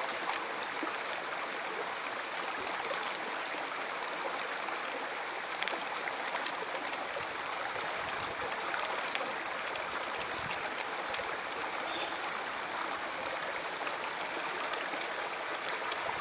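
River water flowing steadily, a continuous rushing sound with small splashing ticks scattered through it.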